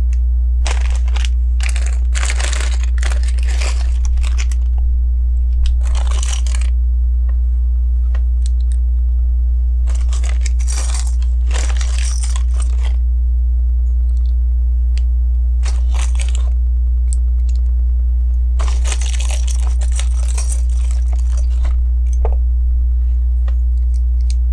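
Hands rummaging through loose plastic Lego pieces in a series of rustling, crinkly bursts, each lasting from half a second to a few seconds, with pauses between them. A steady low hum sits underneath.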